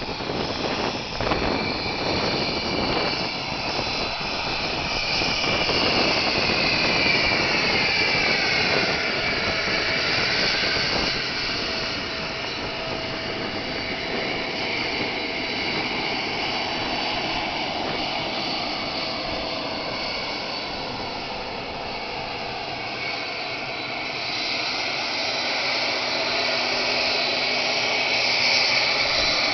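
Cessna Citation 501's twin turbofan engines whining as the jet taxis. The high whine dips in pitch about eight to ten seconds in, then holds steady, and grows louder near the end.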